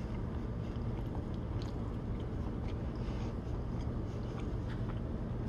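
A person chewing a mouthful of rice, with soft small clicks over a steady low hum.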